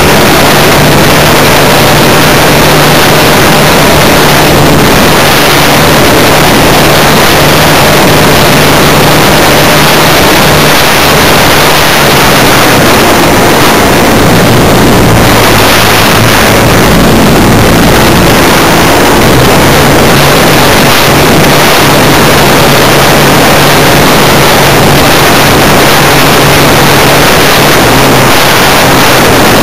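Funtana S90 radio-control model airplane's engine running with heavy wind rush, heard very close and very loud, as if from a camera on the plane. The engine note drops from about twelve seconds in as the throttle comes back, then rises again about two-thirds of the way through.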